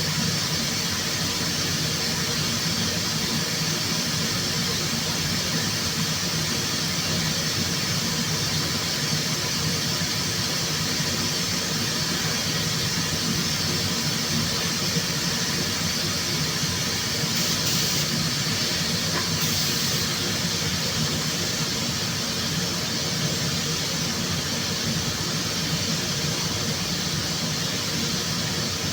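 Steady hiss and hum of compressed-air and ventilation equipment in a car body paint shop, with two short louder spurts of hiss a little past the middle.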